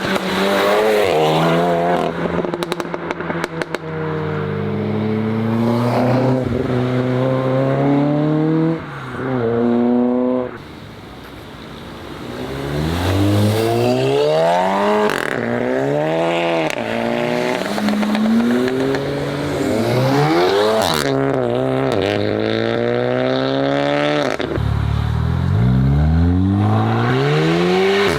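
Modified Volkswagen engines accelerating hard, the pitch climbing and dropping again and again through the gears. A rapid run of sharp pops comes a few seconds in, and there is a brief quieter spell near the middle.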